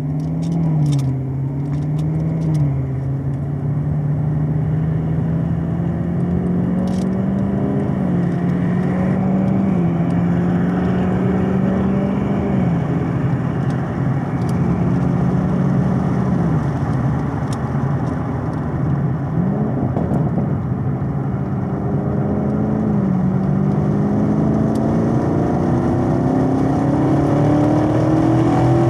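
Chevrolet Camaro SS 1LE's 6.2-litre LT1 V8 accelerating, heard from inside the cabin. The engine pitch climbs in each gear and drops at several shifts of the 10-speed automatic, then after a downshift it pulls steadily higher near the end.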